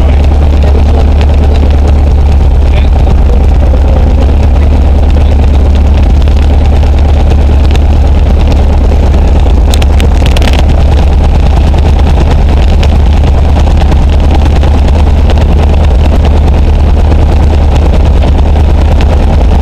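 Luscombe light aircraft's piston engine running steadily, heard loud inside the cockpit as a constant low drone. About halfway there is a brief crackle.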